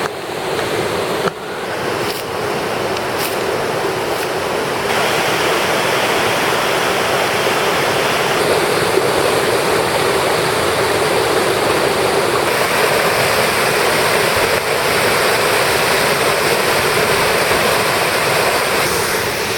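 Waterfall and river water rushing: a loud, steady noise of falling and churning water, with its tone shifting a few times.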